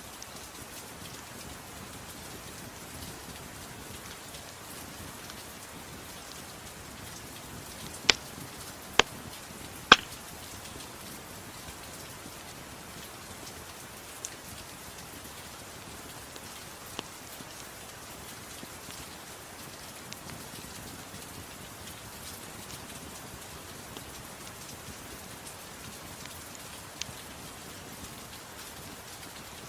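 Steady soft rain, with a few sharp pops of a crackling wood fire; three loud ones come close together about eight to ten seconds in.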